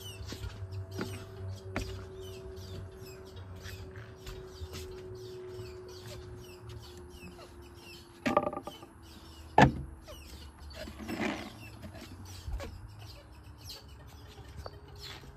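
Birds calling and chirping, with a louder pitched call about eight seconds in and a sharp knock a second later, over a steady low hum.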